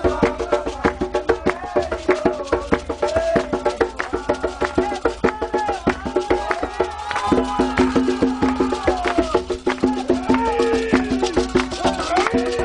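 Candomblé ceremonial music: fast, steady percussion struck several times a second, with voices singing over it.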